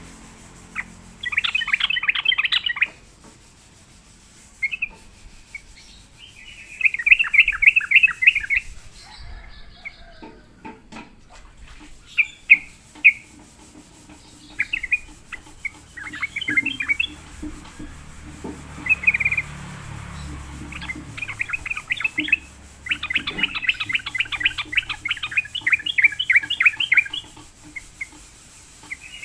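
Trucukan (yellow-vented bulbul) singing in repeated bouts of fast, bubbling chatter, with short gaps between phrases and a long bout near the end. A few sharp clicks sound about ten seconds in.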